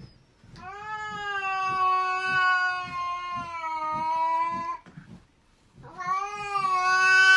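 A cat yowling: two long, drawn-out calls held on a nearly steady pitch, the first lasting about four seconds and the second starting near the end.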